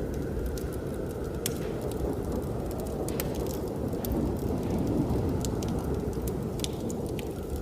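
Wood fire crackling with scattered sharp pops over a steady low rush of blizzard wind.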